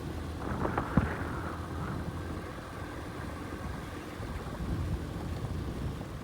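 Motorcycle running steadily on the road with a low rumble of engine and wind on the microphone; a few sharp knocks about a second in.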